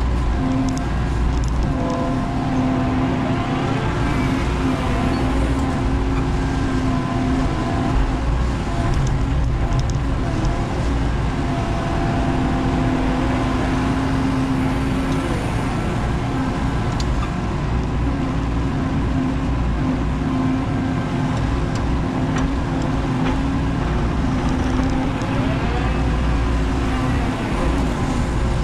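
Menzi Muck spider excavator's engine and hydraulics running steadily under work, a constant machine drone with pitched whining tones that shift slightly as it works, and a few faint clicks.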